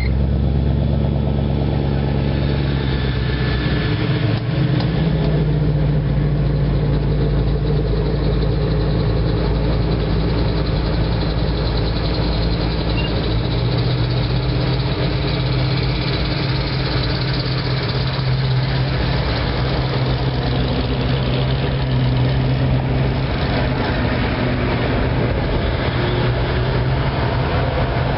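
Hot rods and custom cars driving slowly past one after another, their engines running at low revs with a low-pitched exhaust note.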